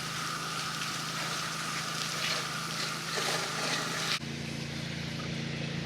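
Gas-engine pressure washer running steadily with the hiss of the water spray; the spray cuts off suddenly about four seconds in while the engine keeps running.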